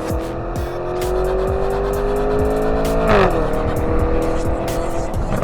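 Lamborghini Urus Performante's twin-turbo 4.0-litre V8 revving, its pitch climbing slowly for about three seconds, then dropping sharply with a brief crackle and settling lower.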